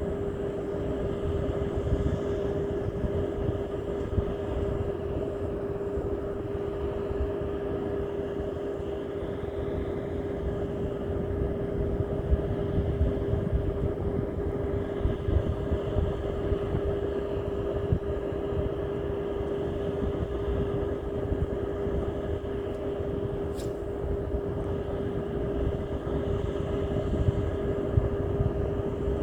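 A steady engine hum with a constant pitch, over a rough low rumble. A single faint tick sounds near the end.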